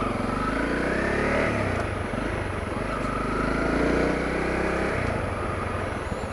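Honda CRF250L's single-cylinder engine running as the dual-sport bike rides along, its pitch rising and falling with the throttle: it climbs in the first second and a half, dips, climbs again around four seconds in, then drops away.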